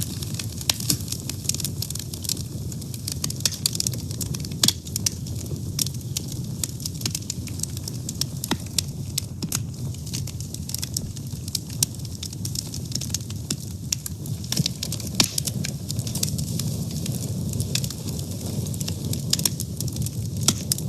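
Wood fire burning, with a steady low rumble and frequent sharp crackles and pops.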